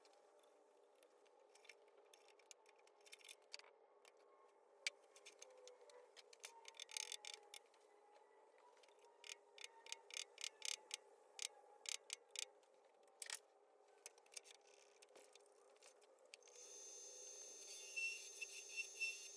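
Near silence with scattered small clicks and ticks over a faint steady hum; a louder steady sound with a repeating bright jingle-like tone comes in about three seconds before the end.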